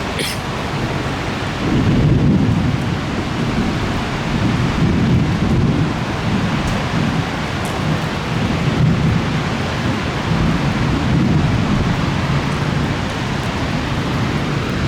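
Rain falling steadily while thunder rumbles low and long, swelling about two seconds in and rolling on in waves.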